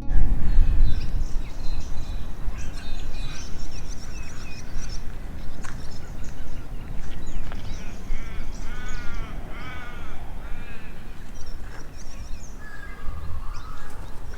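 Birds calling outdoors: assorted high chirps and whistles, with three harsh, drawn-out caws about nine seconds in.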